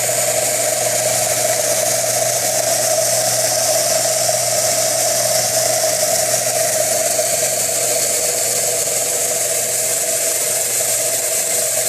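Homemade belt sander running steadily: an electric motor salvaged from a bandsaw spinning a sanding belt, with a constant hum. The belt is running a little loose.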